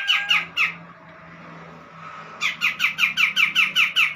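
Grey-cheeked bulbul (cucak jenggot) giving a rapid chattering series of sharp down-slurred notes, about five a second. It breaks off under a second in and starts again about two and a half seconds in, with a faint low hum in the pause.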